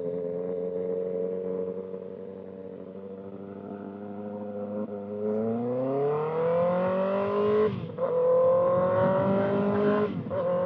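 2025 Kawasaki ZX-6R's 636 cc inline-four through a loud Voodoo Racing slip-on exhaust, ridden in gear. It holds a steady note, then climbs in revs for a few seconds under acceleration, shifts gear with a sudden drop in pitch about eight seconds in, and pulls on again.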